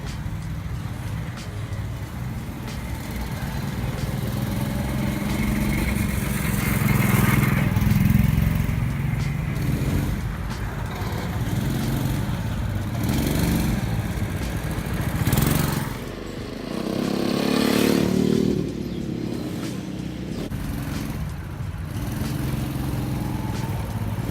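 Small petrol engine of a ride-on recreational vehicle (go-kart or ATV type) running under throttle, its pitch rising and falling as it speeds up and slows down.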